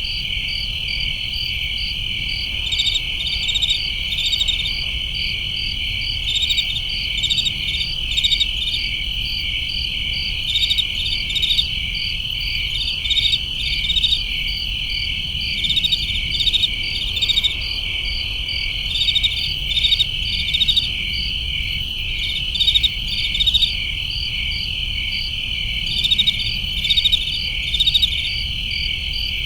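A chorus of summer crickets chirping: a steady high trill, with louder bursts of chirping coming and going every second or two over a faint low background hum.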